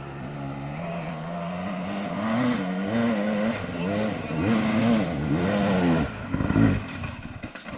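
Off-road motorcycle engine revving hard up a steep hill climb, its pitch rising and falling again and again with the throttle. Near the end it turns ragged and stuttering, then falls away sharply.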